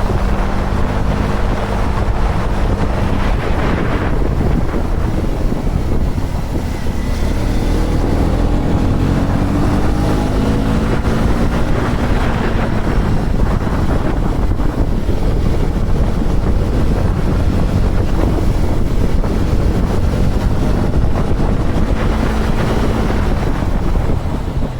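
KTM Duke 250's single-cylinder engine running on the move under heavy wind rumble on the microphone. The engine note holds steady for the first few seconds, then climbs and falls several times through the middle with changes in throttle.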